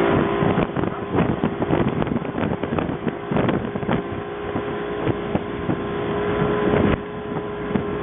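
Motorboat engine running steadily under way, with wind buffeting the microphone in irregular gusts.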